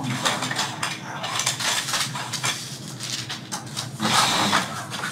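Small hard toy-airplane parts clicking and clattering against each other and the tabletop as they are handled and counted, in quick irregular taps.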